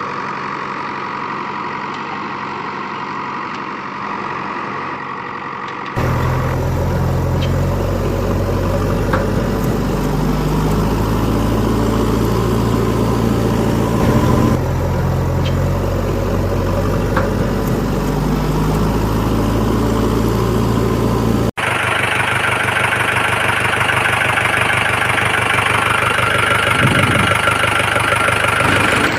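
Vehicle engine sound running steadily at idle, changing abruptly twice: about six seconds in it turns to a louder, deeper steady engine, and about twenty-one seconds in to a higher-pitched one.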